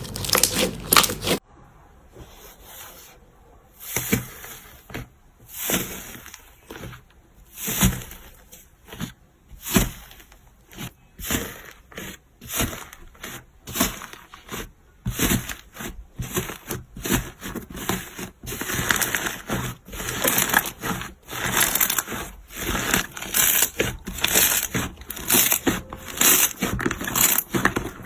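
Slime being squeezed and pressed by hand, making irregular crackles and pops that come thicker and faster in the last third.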